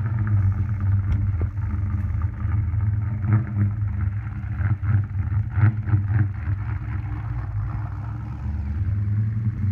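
Holden 355 stroker V8 in a VS SS Commodore running at low revs through its twin 2½-inch exhaust as the car rolls slowly out onto the street. The engine note is a steady low rumble with some uneven pops and rises along the way.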